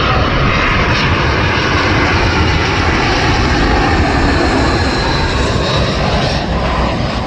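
Jet airliner passing low overhead on final approach, its engines making a loud, steady rushing noise with a faint high whine that drifts slightly lower in pitch, starting to fade near the end.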